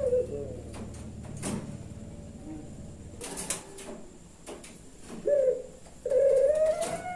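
Puter pelung dove cooing. A long drawn-out call fades just after the start, a short call comes about five seconds in, and another long call starts about six seconds in, rising and then falling in pitch. A few sharp clicks come in between.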